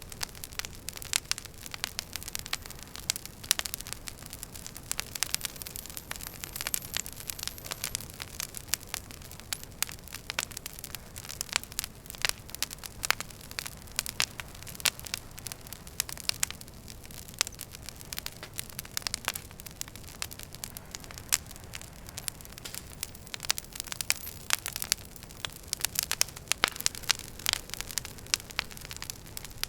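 Wood fire burning in a fireplace, crackling: many sharp irregular pops and snaps over a steady soft hiss, with a faint high whistle falling away around a quarter of the way in.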